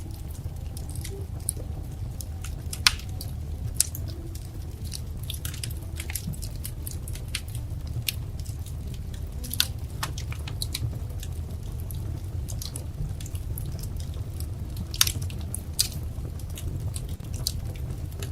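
Wood fire crackling: a steady low rumble of burning with frequent sharp pops and snaps, the loudest about three seconds in and again near fifteen seconds.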